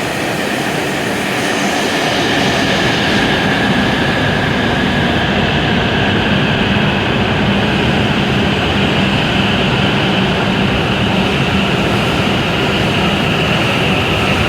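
E7/W7-series Shinkansen train at the platform: a steady, loud machine noise with a low hum and high whining tones that drift slightly in pitch.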